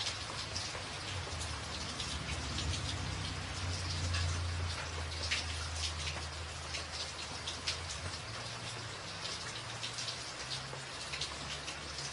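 Steady rain drumming on a tin roof: a dense patter of drops with sharper individual hits pinging through, over a low rumble that swells about four seconds in.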